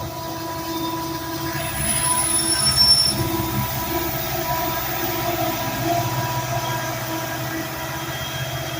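Freight cars rolling past, steel wheels squealing on the rails in several steady tones over a continuous low rumble, loudest about two to three seconds in.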